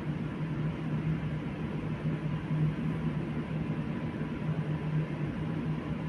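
Steady running noise of a moving train: a low droning hum that pulses slightly, with a faint thin steady tone above it.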